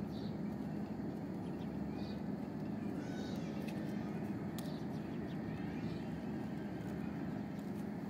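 Faint short bird chirps, about one a second, with a few light clicks, over a steady low hum.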